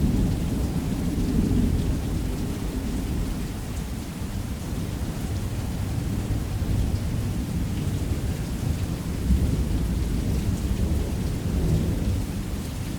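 Heavy rain falling steadily, with low rolling thunder underneath that is loudest at first, eases off and swells again twice.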